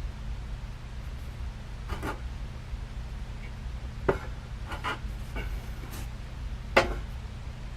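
Handling noise: about six scattered light clicks and knocks of parts being handled, the sharpest near the end, over a steady low hum.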